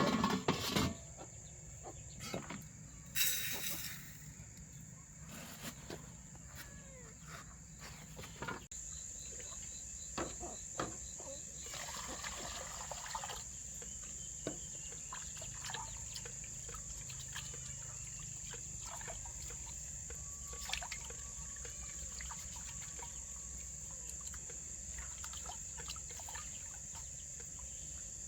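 Insects droning at one steady high pitch, with scattered small clicks and knocks and two short bursts of rushing noise, about three seconds in and about twelve seconds in.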